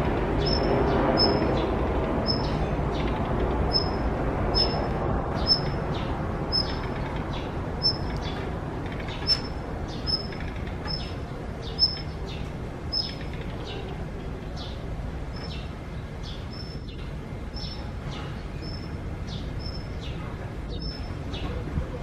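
Daurian redstart calling: a short, high call repeated about once a second, which the observer took to be the mother bird calling near her fledgling. Under it, a steady background noise fades over the first few seconds.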